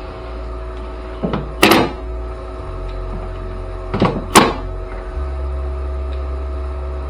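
Two double knocks, each a lighter hit followed by a louder one, about a second and a half in and again about four seconds in, over a steady mechanical hum.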